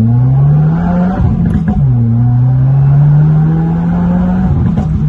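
Car engine accelerating hard through the gears: its pitch climbs steadily, breaks off briefly at an upshift, and drops to a lower pitch before climbing again, twice.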